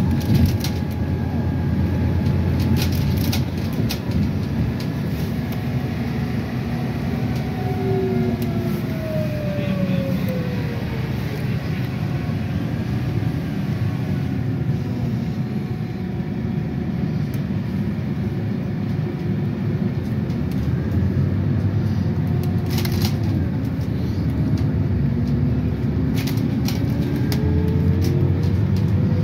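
Ride inside a city public-transport vehicle: a steady drive rumble, with a motor whine that falls as it slows about eight seconds in and rises again as it pulls away near the end. Occasional clicks and rattles.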